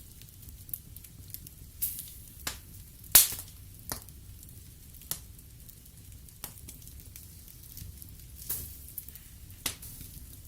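Wood fire in a fireplace crackling: a low steady rumble of flame with sharp irregular cracks and pops of burning logs, the loudest pop about three seconds in.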